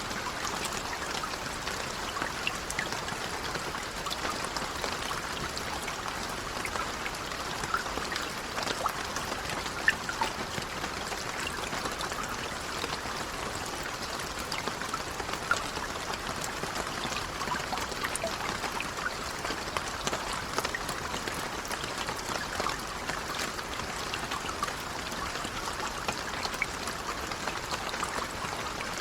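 Steady, gentle rainfall: an even hiss with many small scattered drop ticks.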